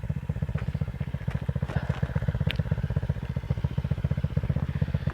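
Dirt bike engine idling with a steady, even putter, and a few faint clicks over it.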